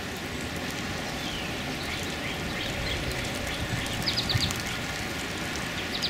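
Steady outdoor background hiss with faint songbird chirps: a few thin falling notes, then a quick run of high chirps about four seconds in.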